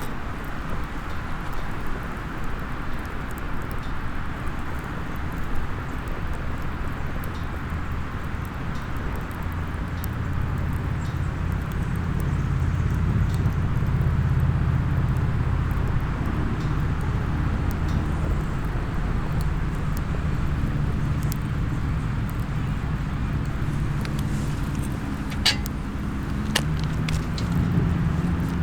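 A low, steady engine hum that swells around the middle, heard over a small wood fire in a SOTO mini fire stand, which gives a couple of sharp pops near the end.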